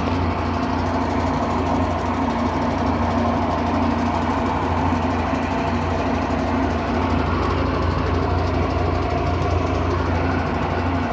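Electrolux Turbo 8 kg (LM08) top-loading washing machine in its spin cycle: the drum spins at a constant speed with a steady motor hum and a low drone.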